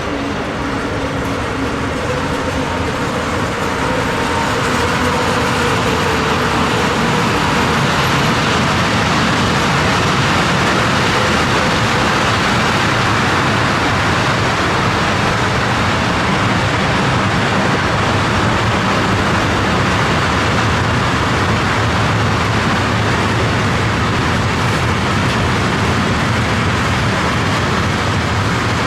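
A train passing close by: a loud, steady rolling rumble on the rails that swells about four seconds in and then holds.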